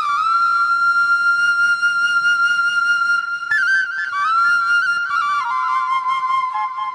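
Flute music playing a slow melody: one long held note for about three seconds, then a phrase that slides between notes and steps lower.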